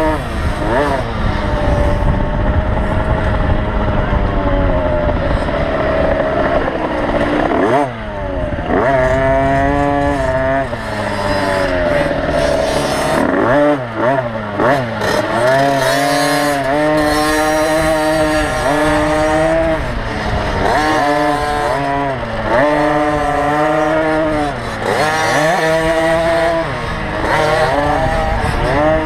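Small motocross bike engine revving hard, its pitch climbing and dropping again and again as the rider opens the throttle and shuts off through the track's sections.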